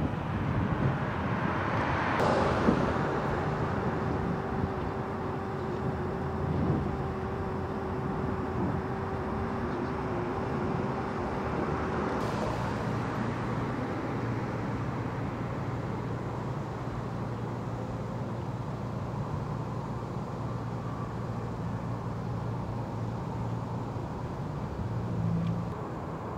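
Vehicle engines running steadily on the street, a steady low engine hum with a louder swell about two to three seconds in.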